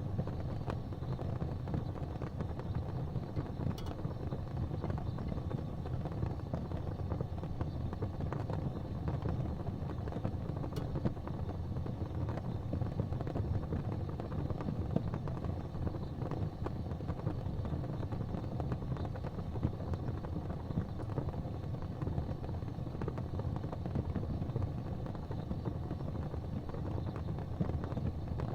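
Gas fireplace flames burning with a steady low rumble, with a few faint ticks.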